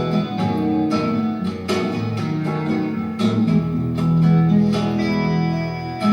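Acoustic guitar playing an instrumental interlude of the song, chords plucked and left ringing.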